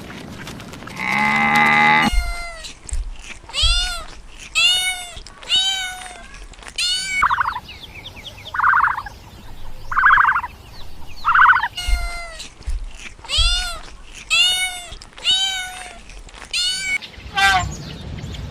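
Repeated short high-pitched animal calls, about one a second, each rising then falling. Midway they give way to four short buzzy calls before resuming.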